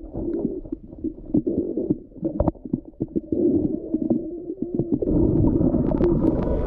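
Muffled underwater sound picked up by a GoPro while snorkeling: low rumbling water noise with scattered clicks and knocks, growing into a louder steady rush about five seconds in.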